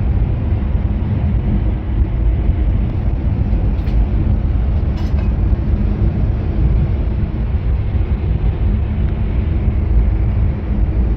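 Steady low rumble and hum of running machinery in a building's boiler room.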